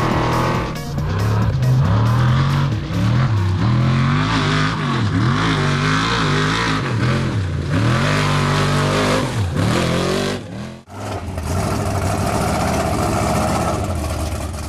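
Off-road trophy truck engine revving hard, its pitch climbing and falling again and again as the throttle is opened and lifted. There is a brief dip about eleven seconds in.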